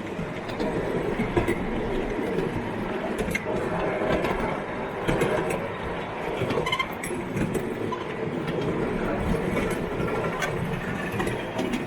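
A garden-railway train running along its track, the wheels rattling with scattered clicks over the rails.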